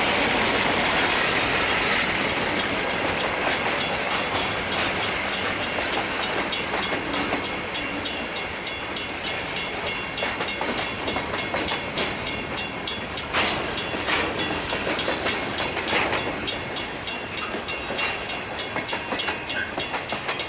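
Freight train rolling past, its wheels clicking in a regular rhythm over the rail joints, several clicks a second. The sound is denser and louder at first, and the clicks stand out more plainly after the first few seconds.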